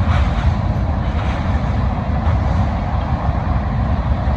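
Freight train cars rolling past close by: a steady low rumble of steel wheels on rail.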